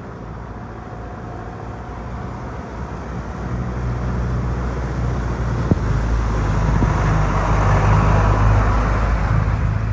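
A pickup truck driving through floodwater on the road, approaching: its engine hum and a rushing hiss of water and tyres grow steadily louder, peaking near the end.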